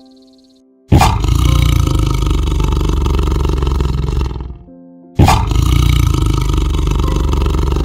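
A large animal's roar, loud and coarse, heard twice: each begins suddenly and lasts about three and a half seconds, with soft music between and before them.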